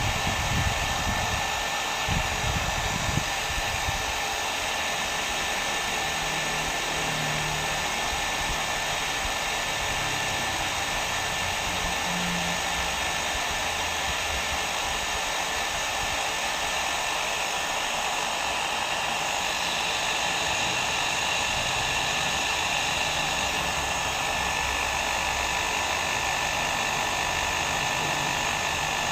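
Hair dryer running continuously with a steady blowing hiss and a faint whine, used as white noise. Some low rumbling in the first few seconds.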